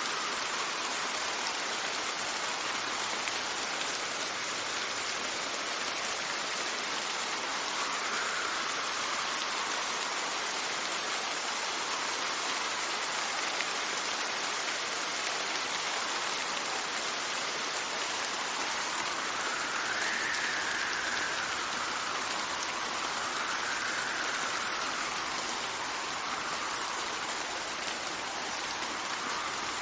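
Steady rain falling, with wind gusting through it. Several times the wind rises into a soft whistle that climbs and falls in pitch.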